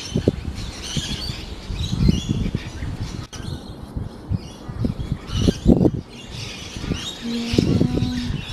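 Many birds chirping and twittering in the trees, rosellas among them. Low rumbles of wind on the microphone come and go, and near the end there is a short, drawn-out low call.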